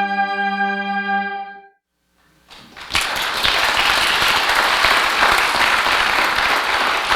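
A piece of music ends on a held chord that dies away about a second and a half in; after a brief silence the audience breaks into steady applause.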